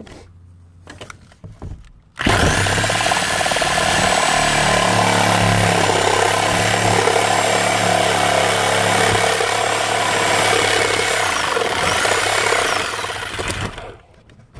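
Handheld electric power tool cutting into the roof for the vent hole, starting abruptly about two seconds in and running steadily for about eleven seconds under load, with a brief dip in motor pitch before it winds down near the end.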